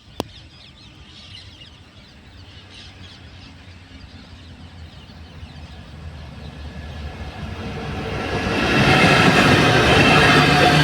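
Diesel-hauled train approaching, its rumble growing steadily louder over about nine seconds, then running loud and close. A single sharp click sounds at the very start.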